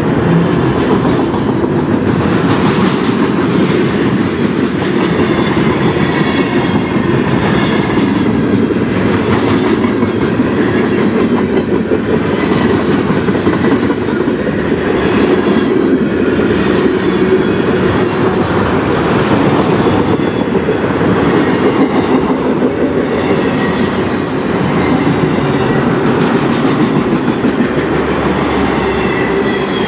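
Freight train's autorack cars rolling past close by, steel wheels rumbling steadily on the rails.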